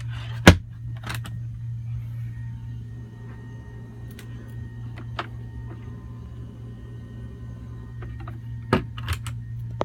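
Steady low hum of the boat's cabin air conditioner running. A sharp knock comes about half a second in, followed by several lighter clicks and knocks of cabinet doors and latches.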